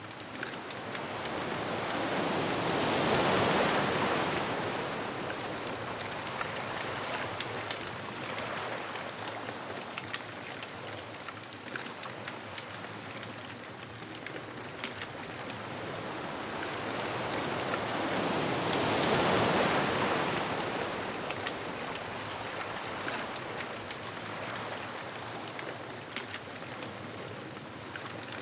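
Ocean waves breaking and washing up the beach: a steady surf hiss that swells twice, once a few seconds in and again about two-thirds of the way through.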